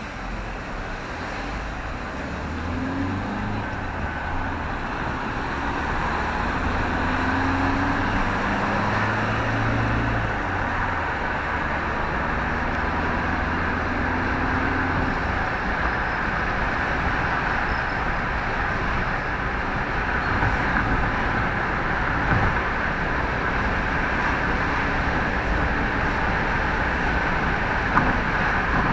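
Motor vehicle engine and road noise: the engine note climbs several times through the first fifteen seconds or so as the vehicle gathers speed through the gears, then gives way to a steady rumble of tyres and road, with a couple of light knocks near the end.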